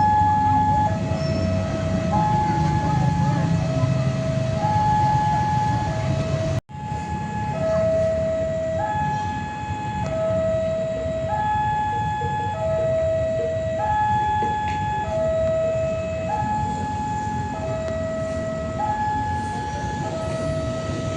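Electronic two-tone alarm alternating between a higher and a lower note, each held about a second, repeating steadily over a low rumble. The sound drops out for an instant about a third of the way in.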